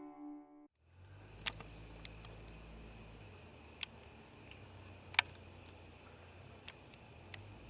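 A few soft guitar notes end within the first second, then a quiet background with a faint low hum and a thin steady high tone, broken by scattered sharp clicks at irregular intervals; the loudest click comes about five seconds in.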